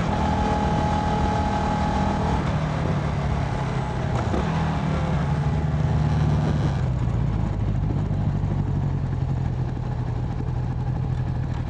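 Motorcycle engine running under way, heard from the rider's helmet with wind rush over it. The wind hiss eases off about two-thirds of the way through while the engine keeps running.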